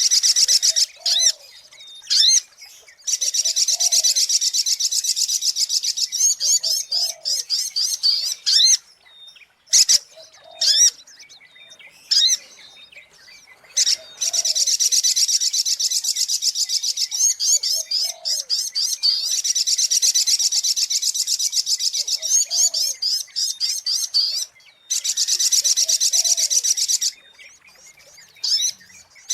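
Little spiderhunter (sogok ontong) calling: long runs of rapid, high-pitched chirps repeated many times a second, in bursts of several seconds broken by short pauses. It is a bird-lure call recording.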